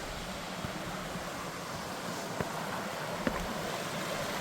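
Steady rush of a flowing brook, with a few faint knocks scattered through it.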